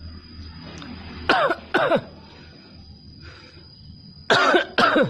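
A parrot giving short, cough-like calls that fall in pitch, in two pairs: two calls half a second apart, then the same again some three seconds later.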